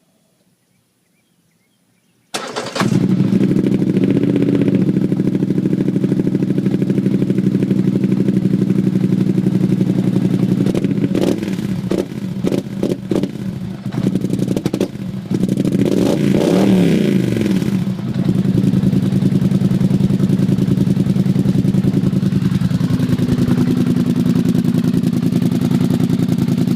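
A Polaris Sportsman 850 ATV's twin-cylinder engine, breathing through a Looney Tuned slip-on exhaust, starts up suddenly about two seconds in and settles to a loud idle. It is blipped several times past the middle, then revved once up and back down, and goes back to idling.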